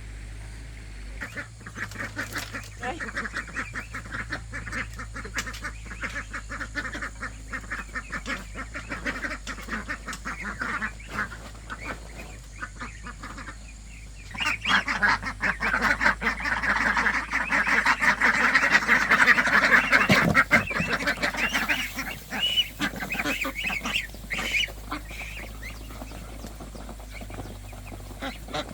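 A flock of farm birds calling, many rapid overlapping calls that start about a second in, swell for several seconds around the middle, then thin out to scattered calls near the end.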